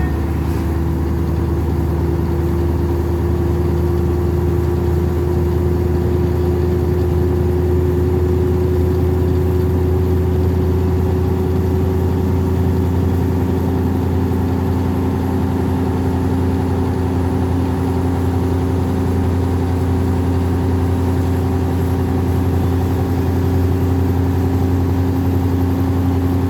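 Scania 143's 14-litre V8 diesel running steadily under load, heard from the cab. It is cruising in eighth gear at about 1,400 rpm, the engine note holding nearly level throughout.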